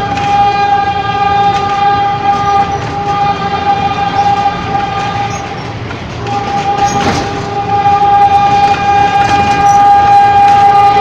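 Ex-JR 203 series electric multiple unit running on the rails, with a steady high-pitched tone and overtones over the rumble of the train, breaking off briefly about six seconds in and then resuming. A single sharp click sounds about seven seconds in.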